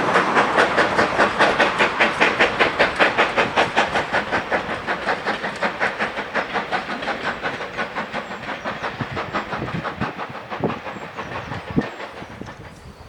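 Steam locomotive working a train away, its exhaust beats coming evenly at about five a second and fading as it recedes, with a few low knocks from the train near the end.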